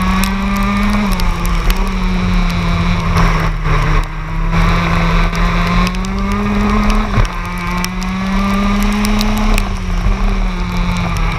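TM K9ES 125cc two-stroke shifter kart engine under way, its pitch climbing under throttle and stepping abruptly with gear changes several times.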